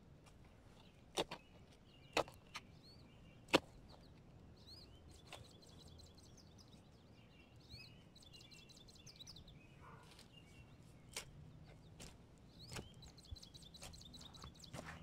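Faint birds chirping in the background, with a few sharp knocks or clicks in the first few seconds, the loudest about three and a half seconds in.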